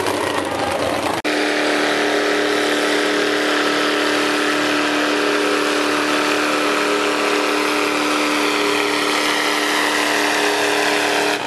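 Truck engine running hard at steady high revs during a truck pull, as it drags the weight sled; the pitch holds level, with a sudden break about a second in.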